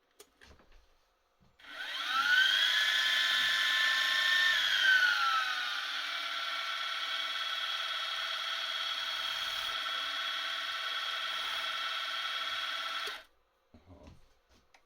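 Milling machine spindle spinning up with a rising whine, then dropping in pitch and running at a lower steady whine while drilling the aluminium plate, before stopping suddenly.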